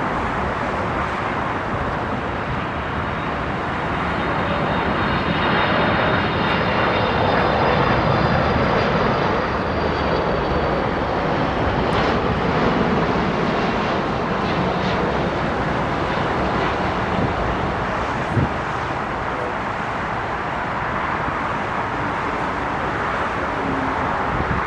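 McDonnell Douglas MD-11F jet with General Electric CF6 engines flying past, a steady jet rush that swells and eases again, with a faint high fan whine that slides slowly downward as it goes by. A short knock comes about eighteen seconds in.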